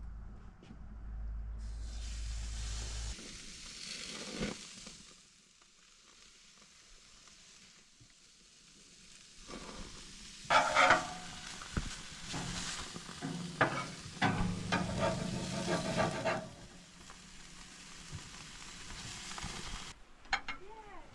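Food sizzling and crackling as it cooks, in several stretches, quieter for a few seconds before the middle and loudest just past it.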